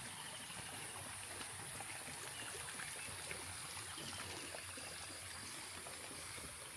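Water trickling and running in a small stream or channel, a steady, even rush, with a constant high hiss above it.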